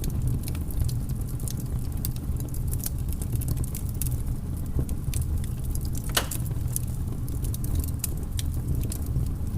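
Wood fire in a fireplace crackling with irregular sharp pops over a steady low rumble, with one louder pop about six seconds in.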